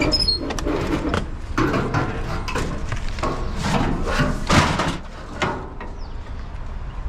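Irregular knocking, clattering and scraping of hard objects being handled and moved, over a steady low rumble.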